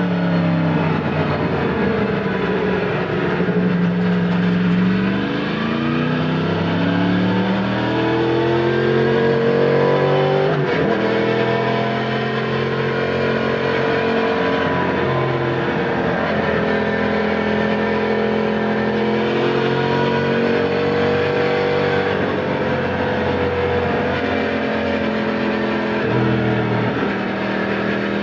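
Yamaha MT-10 SP's crossplane inline-four running through an Akrapovic titanium slip-on exhaust, heard onboard while riding. Over the first ten seconds or so it accelerates several times, the pitch rising and dropping at each gear change. After that it holds a steadier pitch.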